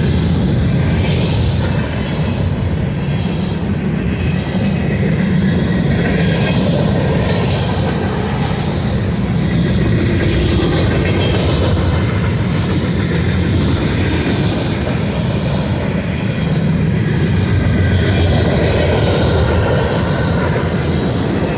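Freight train cars rolling past, a steady loud rumble of steel wheels on rail.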